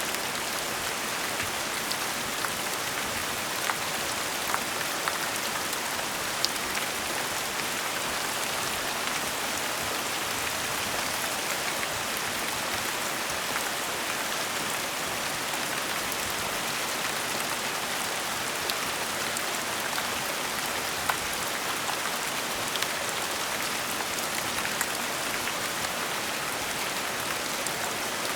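Steady gentle rain: an even hiss of rainfall with scattered louder individual drops ticking against a surface.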